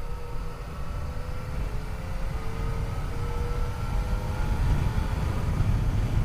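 Yamaha FJ-09 three-cylinder engine running under way, under a heavy low rumble of wind on the microphone; the engine note edges up slightly about halfway through.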